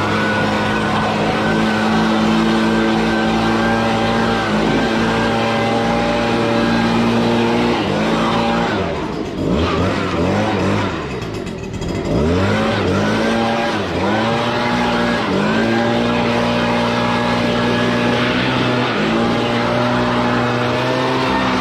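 Riding lawn mower engine running at a steady high speed. Its pitch sags and climbs back several times midway through.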